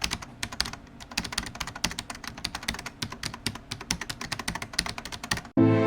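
Rapid typing on a computer keyboard: a quick, irregular run of key clicks, several a second. About five and a half seconds in the typing stops and music begins.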